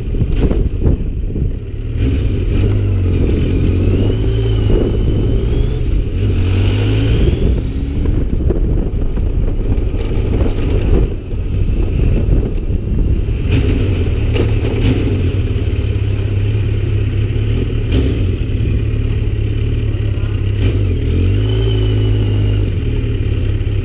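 Motorcycle engine running under way, its note rising and falling several times as the rider accelerates and eases off.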